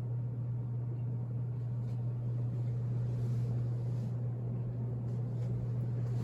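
1993 Casablanca Victorian ceiling fan running, with a steady low motor hum under a rush of moving air and a couple of faint ticks.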